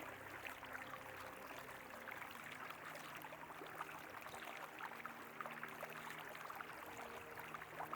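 River water flowing and babbling, a soft steady rush flecked with small splashes. A faint low steady hum sits underneath.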